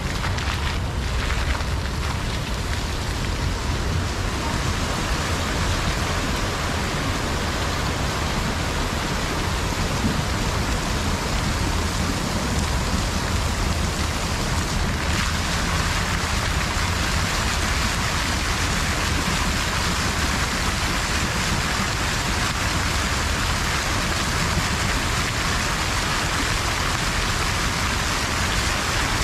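Water falling and splashing steadily in a park water feature, a continuous rushing splash. It turns a little brighter and hissier about halfway through.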